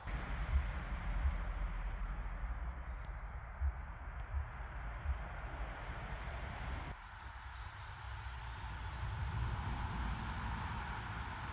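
Outdoor ambience: wind buffeting the microphone with low, uneven rumbles over a steady rushing hiss, and a few faint bird chirps.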